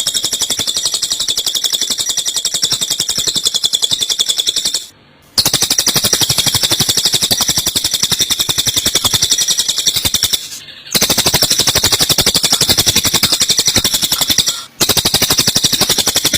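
Eurasian tree sparrows' fighting chatter, a fast, unbroken run of high-pitched chirps, mixed with cililin song. It stops briefly three times, about 5, 10½ and 15 seconds in.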